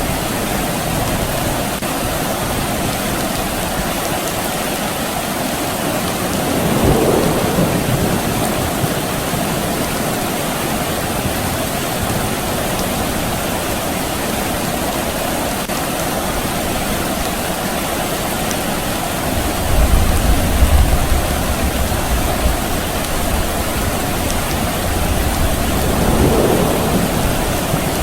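Steady soft rain falling, with a low rumble of distant thunder about two-thirds of the way in.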